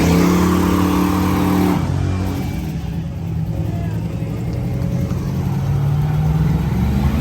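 Loud car engine accelerating, easing off about two seconds in, then a lower engine rumble that builds again near the end.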